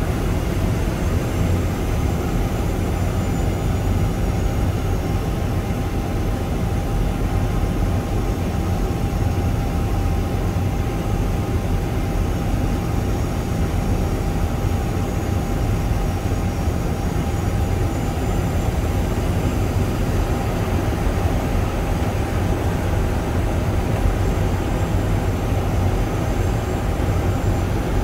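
Steady flight-deck noise of an airliner on final approach: an even rush of airflow and engine rumble with a faint steady whine.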